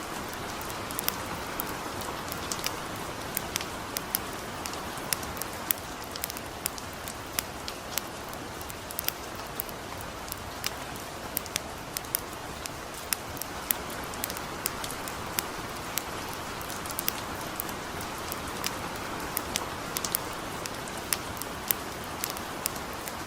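Steady light rain hiss mixed with frequent small, sharp crackles and pops from a burning campfire, several a second at irregular intervals.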